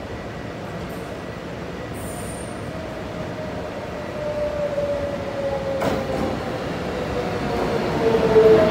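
Taiwan Railways local electric multiple-unit train rolling into a station and braking. Its rumble grows louder as it nears, and from a few seconds in, thin squealing tones from the wheels and brakes slowly fall in pitch. There is one sharp click about six seconds in.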